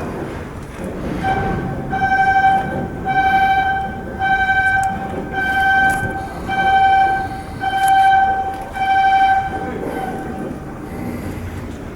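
A warning horn or buzzer sounding a string of about eight long beeps on one steady pitch, roughly one a second, over a low rumble of machinery.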